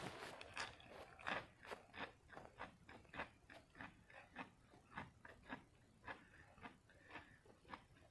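A person chewing a mouthful of raw lettuce: steady crisp crunches, about three a second.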